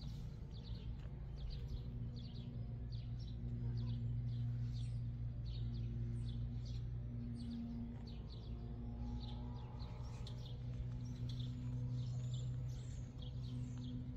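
Small birds chirping over and over in short high notes, several a second, over a steady low hum.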